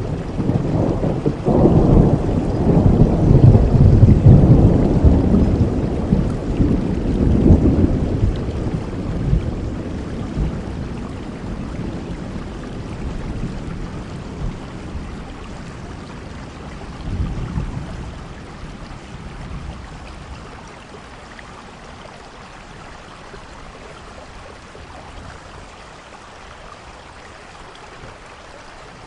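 Steady rainfall with a long roll of thunder that swells about a second in, peaks a few seconds later and dies away over several seconds. A shorter, fainter rumble comes a little past the middle, and after it only the rain remains.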